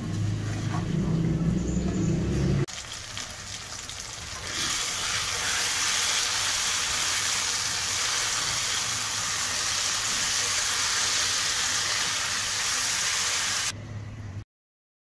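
Spatula stirring okra and chicken masala in a frying pan, with a low rumble for the first few seconds. After a cut the food sizzles in the hot oil as a steady hiss, which stops suddenly near the end.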